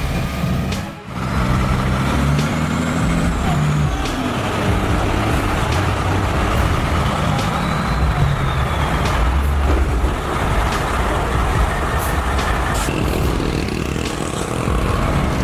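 Heavy diesel vehicle engine running hard and steadily, with a few sharp clicks and knocks over it. The sound briefly drops away about a second in.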